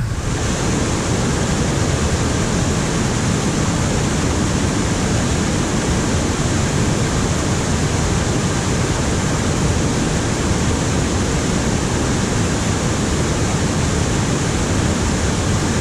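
Waterfall at close range: a steady, dense rush of falling water.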